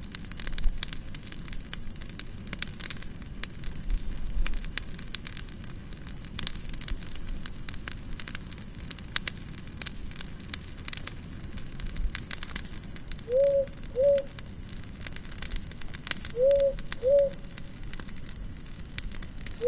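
Campfire crackling and popping in irregular sharp clicks. A quick run of about eight high, even chirps from an insect comes through near the middle, and a low two-note call repeats twice near the end.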